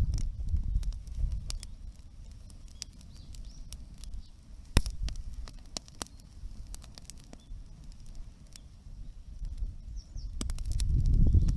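Wood fire crackling, with irregular sharp pops and one louder crack about halfway through, over a low rumble that swells again near the end.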